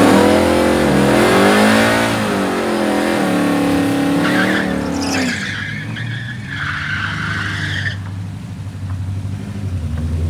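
A drag car's engine revving hard and rising and falling in pitch while its rear tyres spin and squeal in a burnout. The revving drops away about five seconds in, the tyre noise stops near the eight-second mark, and the engine settles to a steady idle.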